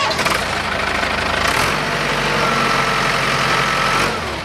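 Cummins 4BT four-cylinder turbo-diesel in a forklift, brought up suddenly to a high, steady speed and let back down near the end. A steady whine joins about halfway through.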